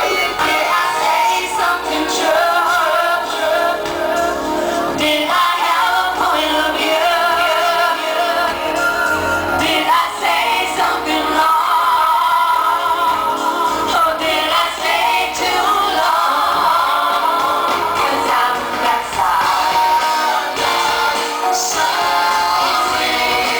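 Live pop concert music with a female voice singing over the band.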